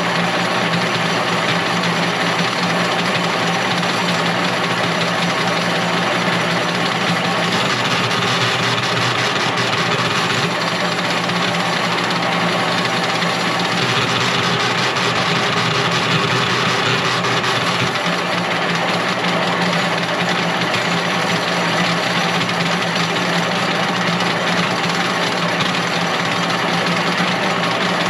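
An engine or motor running steadily, with a constant low hum and no break or change in pace.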